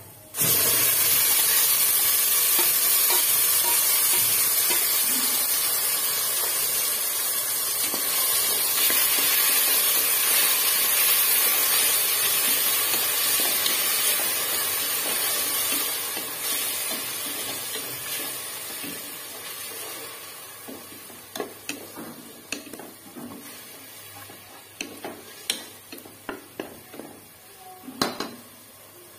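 Green paste sizzling loudly as it hits hot oil and fried onions in an aluminium pressure cooker, starting abruptly about half a second in. The sizzle fades gradually through the second half while a spatula stirs, leaving scattered sharp knocks and scrapes of the spatula against the pot near the end.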